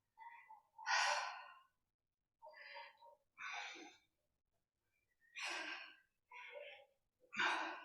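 A woman breathing hard with effort: short, quiet, sighing breaths in and out, one about every second, some louder than others, as she tires in a held exercise.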